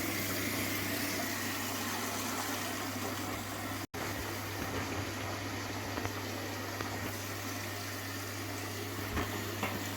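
Indesit washing machine taking in water: the inlet solenoid valve is open and cold water rushes into the drum as a steady hiss over a steady low hum. The sound cuts out for an instant about four seconds in.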